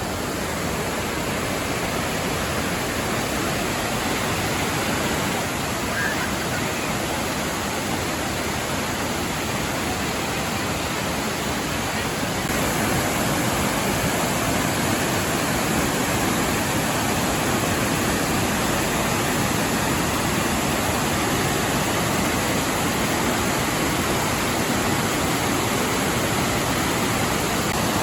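Waterfall rushing: a steady roar of falling water that gets a little louder about twelve seconds in.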